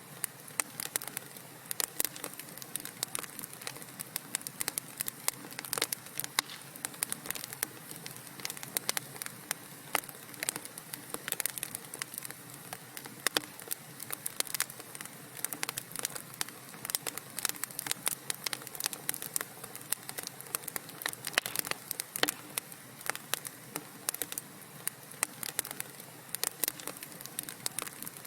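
Burning wood crackling in a fireplace: irregular sharp pops and snaps, several a second, over a steady soft hiss.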